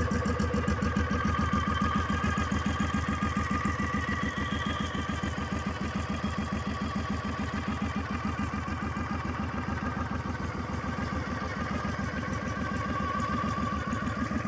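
18 hp V-twin minibike engine running steadily just after a cold start, with an even, fast pulsing beat and no revving.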